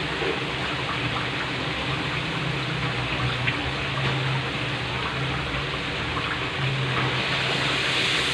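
Chicken frying in a wok of oil and spiced seasoning liquid: a steady sizzling bubble, growing louder near the end as a spatula stirs the pan.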